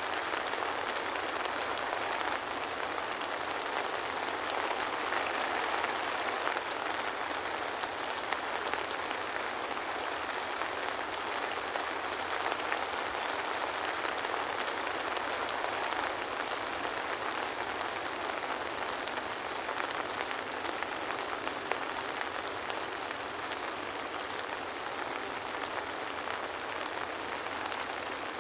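Steady soft rain falling, with small scattered drop ticks and no thunder.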